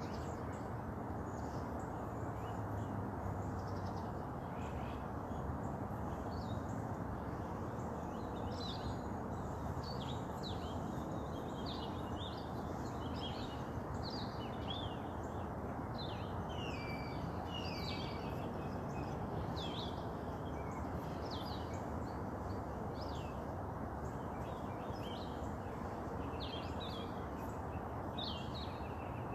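Many birds chirping and singing in short, overlapping calls, busiest in the middle, over a steady low roar of distant highway traffic.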